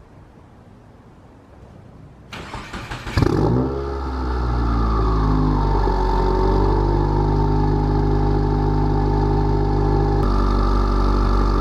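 Car engine cranked for about a second, catching with a sudden flare of revs, then settling into a steady idle. The idle's tone shifts slightly near the end.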